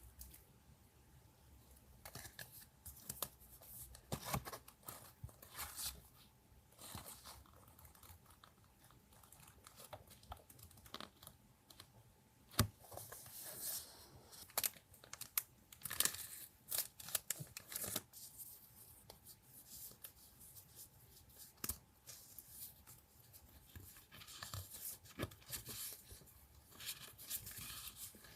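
Paper being torn and crinkled by hand, with rustling and light taps of paper materials in irregular bursts. One sharp tap about twelve seconds in is the loudest sound.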